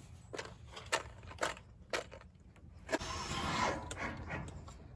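Wooden boards and sheet-metal roofing being handled and fitted: a few sharp knocks about every half second, then about a second of rasping, scraping noise.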